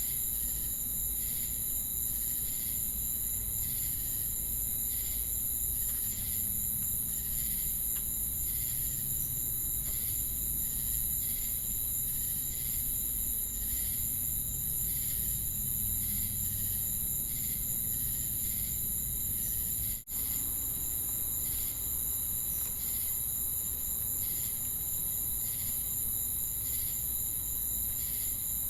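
A chorus of crickets and cicadas: a steady high-pitched drone with an even chirping pulse about one and a half times a second over it. The sound drops out for a split second about 20 seconds in.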